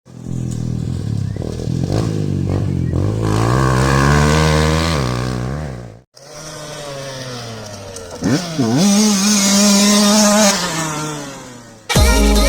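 Two-stroke motocross dirt bike engine revving as it rides: the pitch climbs under throttle and then drops off. After a sudden cut about six seconds in, it revs again, dips sharply and picks back up, holds, then winds down.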